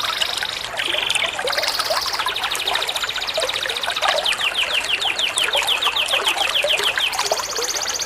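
Recorded songbird song: high buzzy trills, then a long run of quick down-slurred notes about five a second, then another high buzz near the end, over a steady sound of trickling water.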